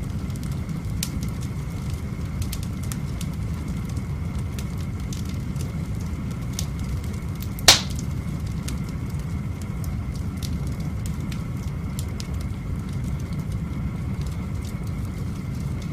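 Wood fire crackling in a cobblestone fireplace, with scattered small pops over a steady low rumble and one loud sharp crack about halfway through.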